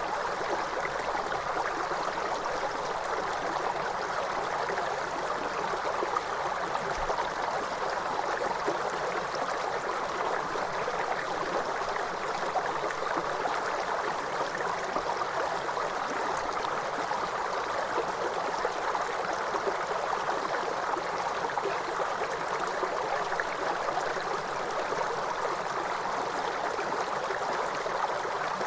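Waterfall: water rushing steadily and evenly, with no change in level, most of its sound in the middle range.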